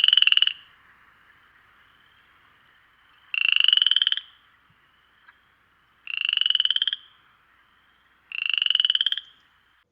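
A frog croaking: four short, rapidly pulsed calls, each under a second long and rising slightly in pitch, about every two to three seconds.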